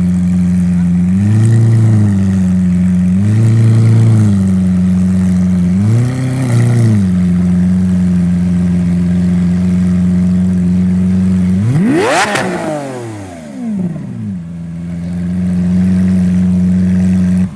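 Lamborghini Aventador LP700-4's 6.5-litre V12, breathing through a factory racing exhaust, idling and blipped three times in quick succession. About twelve seconds in it is revved hard once, the pitch shooting up and falling back over about two seconds before it settles to idle again; it cuts off suddenly at the end.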